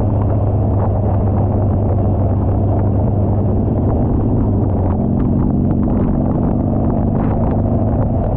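Motorcycle engine running under way, a steady low drone that rises a little in pitch about five seconds in as the rider opens the throttle.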